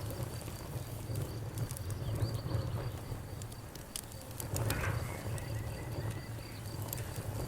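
Wood fire crackling, with scattered sharp pops and snaps over a low steady rumble of burning. A brief hiss rises about five seconds in.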